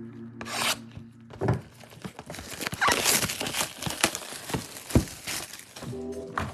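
Plastic wrapping on a box of trading cards crinkling and tearing, in dense crackly rustles with small clicks that die away near the end.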